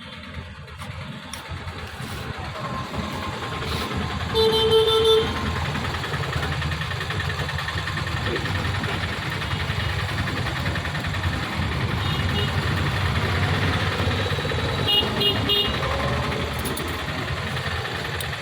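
Street traffic with a vehicle engine running steadily and growing louder over the first few seconds. A single horn honk sounds about four and a half seconds in, and short high-pitched beeps come later.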